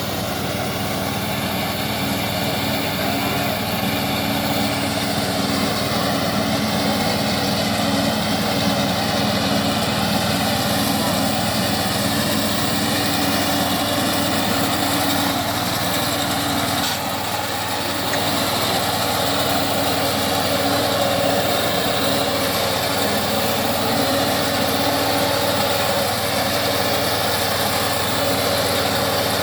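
Single-cylinder 170F petrol engine of a walk-behind reaper running steadily, with a brief dip in level about midway through.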